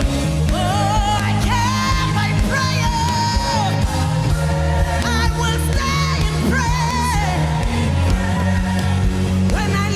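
Live worship music: a solo voice sings long, gliding phrases with vibrato, with no clear words, over held low chords from the accompaniment.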